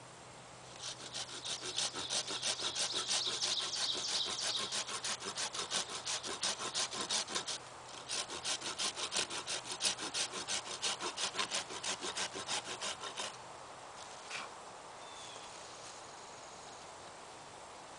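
Hand saw cutting through wood with quick, even back-and-forth strokes, in two bouts with a short pause between, then stopping about two thirds of the way through. A single click and faint bird chirps follow.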